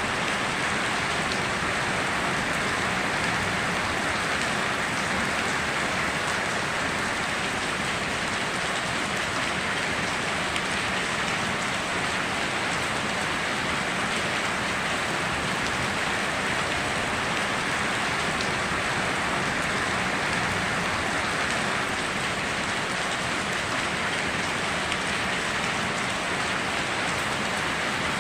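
Steady heavy rain falling and pattering on surfaces, an even hiss with no thunder or other events.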